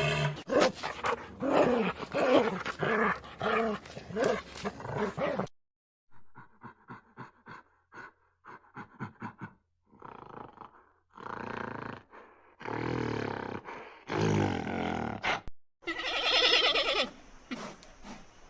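Dogs growling and barking in a string of short separate clips, with abrupt cuts and brief silences between them.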